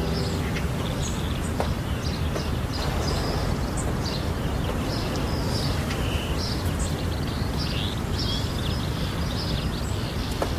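Small birds chirping in short, repeated calls over a steady outdoor background hiss.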